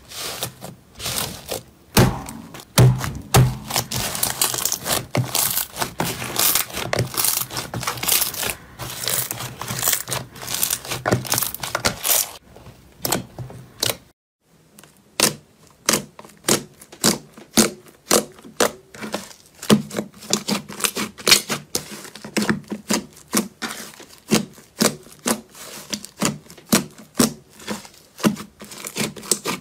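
Slime being squished, stretched and poked by hand. The first half is dense crackling and popping. After a brief pause comes a second stretch of sharper pops and clicks in a regular rhythm.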